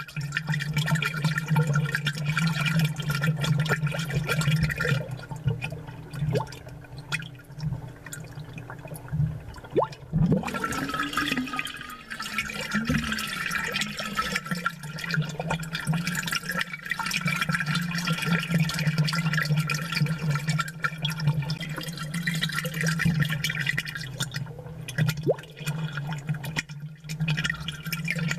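Amplified aquarium bubbling: a continuous fizzing, crackling stream of bubbles over a steady low hum, easing off briefly a few times.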